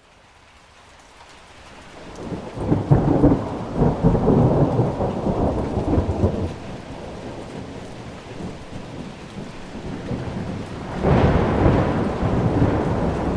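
Thunderstorm: steady rain fading in from silence, with a long roll of thunder building about two seconds in and dying down, then a second thunder roll near the end.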